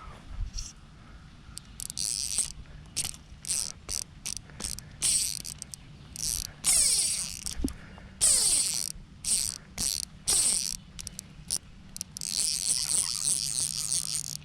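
Fly reel's click-and-pawl ratchet buzzing in repeated short spurts, some sliding up or down in pitch, as line goes on and off the reel while a hooked fish is fought in.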